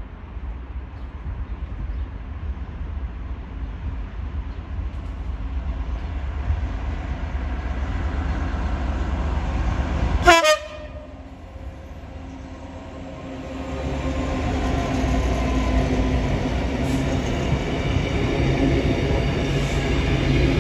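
Class 66 diesel locomotive hauling a container freight train: a low rumble growing louder as it approaches, a very short horn toot about halfway through, then the locomotive's two-stroke EMD V12 diesel getting louder as it draws near.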